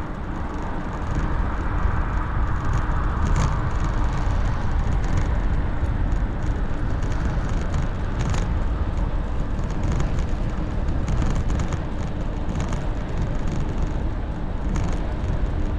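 Wind on the microphone and tyre rumble from a trekking bike being ridden, a steady noise heaviest at the low end, with a faint steady hum and scattered light ticks.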